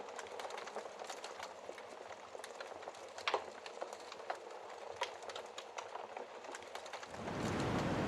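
Wood fire crackling, with irregular small pops and one louder pop about three seconds in. Near the end a low rushing wind noise from the snowstorm swells in and stays, louder than the fire.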